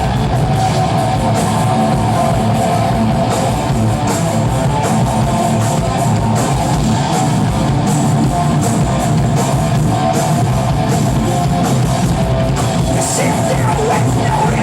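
Live rock band playing loudly, with distorted electric guitar, bass and drum kit.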